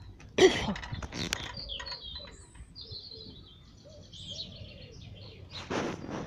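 Small birds chirping and twittering in short, high, rising and falling calls. A brief louder noise comes about half a second in.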